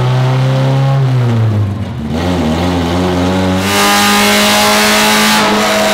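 Mazda Miata four-cylinder engine making a full-throttle pull on a chassis dyno, run without boost with the supercharger's charge pipes disconnected. The engine note dips about a second in, climbs over the next two seconds, then holds at high revs from about four seconds in, with a loud rushing noise on top.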